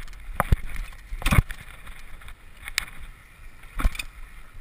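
Mountain bike ridden down a rough trail: a steady low rumble with sharp clanks and knocks from the bike over bumps, five or so in all, the loudest about a second and a half in.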